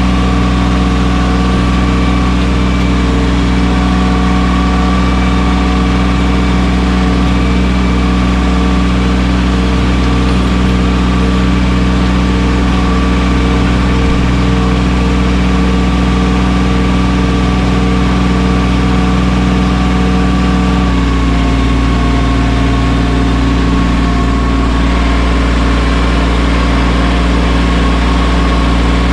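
Mahindra 1626 sub-compact tractor's diesel engine running steadily under work. Its note shifts about two-thirds of the way through, then holds steady again.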